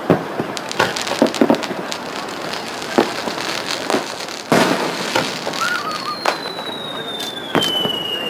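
Aerial fireworks bursting in a display, a string of sharp bangs and crackles with the loudest about four and a half seconds in. From about six seconds in, a long high whistle falls slowly in pitch.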